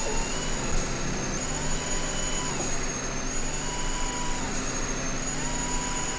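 A motor vehicle's engine running steadily, with a thin high whine over it and a mid-pitched tone that comes and goes three times.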